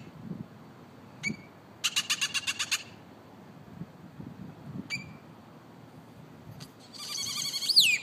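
A bird calling from a tree: a short note, then a harsh rattle of about nine quick pulses, another short note, and near the end a harsh rattle that ends in a loud whistle sliding down in pitch.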